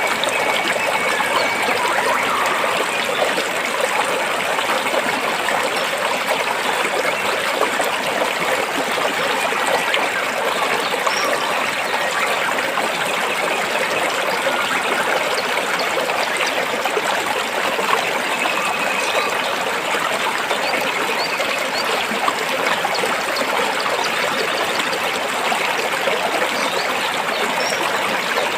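A rocky stream flowing steadily over rocks, with a continuous rushing and trickling of water.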